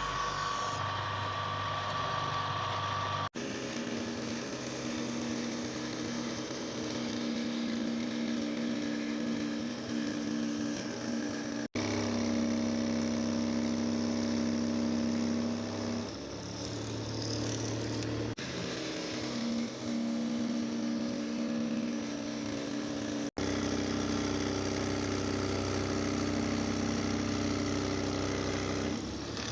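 An electric motor running steadily with a constant hum, in several stretches that break off abruptly where the footage is cut.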